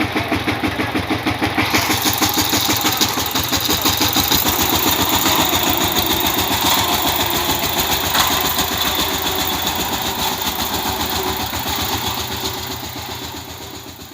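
Power tiller's single-cylinder diesel engine running with a rapid, even beat. From about two seconds in it takes on a harsher, higher edge as it works harder, then fades away near the end.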